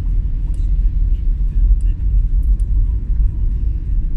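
Steady low rumble of a vehicle on the move, with heavy road and wind noise on the microphone. A few faint high ticks sound over it.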